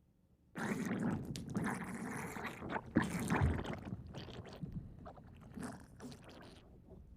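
Kothoga monster sound effect: a rough creature growl performed by a human voice artist. It starts about half a second in, is loudest around three seconds, then tails off.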